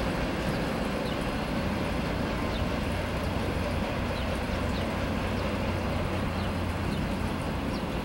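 Steady rumble of a freight train's cars rolling along the tracks as the end of the train moves away, with a few faint short high chirps.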